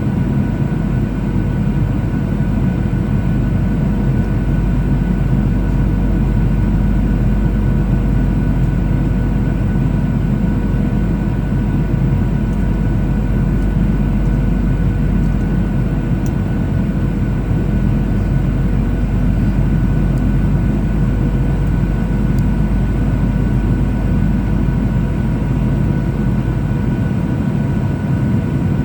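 Cabin noise inside a Boeing 737-800 in flight: a steady low rumble of engine and airflow, with a faint steady hum of a few pitches above it.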